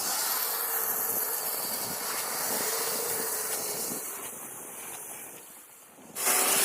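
Kyosho Blizzard RC snowcats running, a faint wavering electric-motor whine over the hiss of their tracks churning snow. About six seconds in, a sudden louder rushing hiss.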